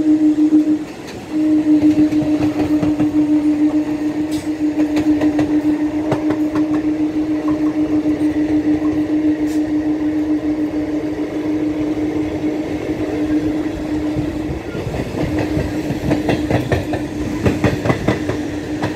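EMU local train running at speed: a steady hum from the moving train, broken briefly about a second in, with wheels clacking over the rail joints, the clacking growing busier near the end.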